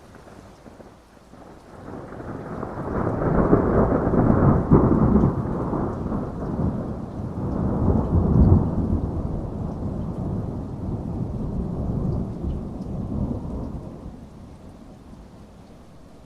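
Heavy rain falling steadily under a long, rolling peal of thunder. The low rumble swells about two seconds in, peaks twice, and dies away near the end.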